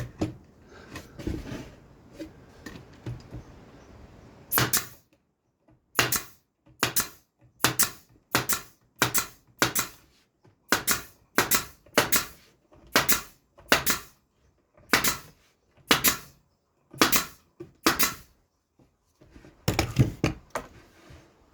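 Nails being driven into wooden fence picket boards: a long, steady run of sharp strikes, about one every two-thirds of a second, after a few seconds of quieter handling of the wood.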